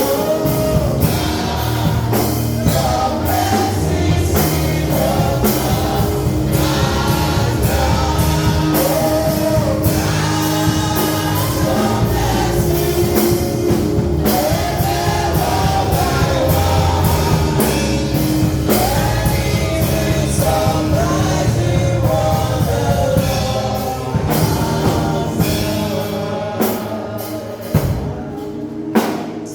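Gospel worship music: singing over a band with a steady drum beat, easing off in the last few seconds.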